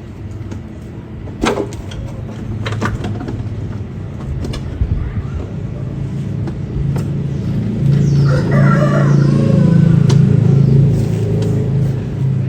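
A motor running with a steady low hum that grows louder about seven seconds in, with a few sharp metallic knocks in the first seconds.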